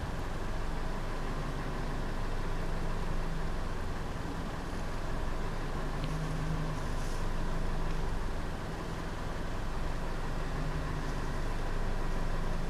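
Steady low hum of an idling vehicle engine, with a faint steady whine above it.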